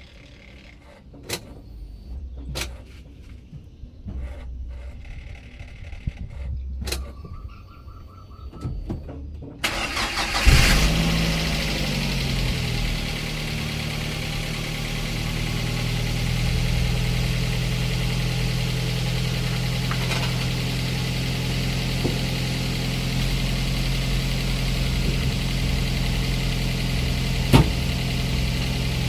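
Freshly overhauled Daihatsu Gran Max 1.3 four-cylinder engine cranked and catching at once about ten seconds in, after a stretch of quiet with a few clicks. It flares briefly, drops in pitch, then settles into a steady idle: the first start after the rebuild for lost compression.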